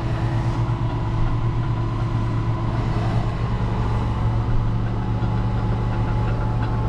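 An engine running steadily, a low, even drone that does not change.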